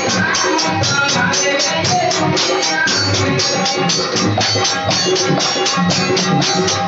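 Live stage band music in an instrumental passage: a fast, steady percussion beat of about four strokes a second under held melody notes.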